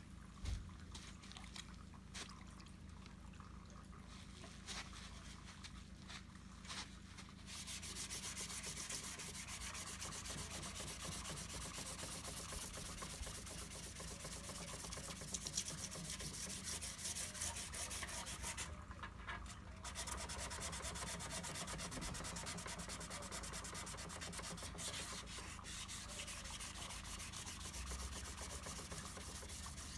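Dry sanding of body filler: abrasive paper scratching steadily over the hardened filler, starting about a quarter of the way in. It stops briefly about two-thirds through, then carries on. Before the sanding there are a few light knocks and scrapes, the sharpest near the start.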